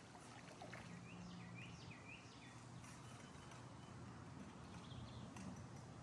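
Faint outdoor background with a steady low hum and a quick series of short, rising bird chirps in the first half, and a few more chirps near the end.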